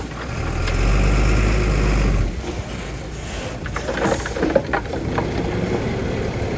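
Heavy earthmoving machine's diesel engine running, louder and under load for about two seconds, then easing off. A few knocks come near the middle.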